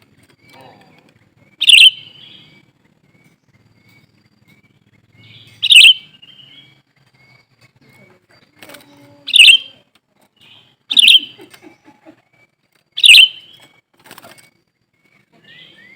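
Cucak ranting calling: five loud, sharp chirps spaced about two to four seconds apart, with a faint run of short, quick repeated notes between them.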